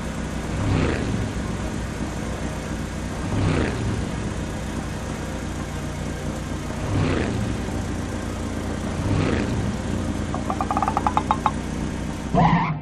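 Cartoon vehicle sound effects: an engine running steadily, swelling four times as if revving or passing by. A fast run of ticks comes near the end, and a rising sweep follows just before it stops.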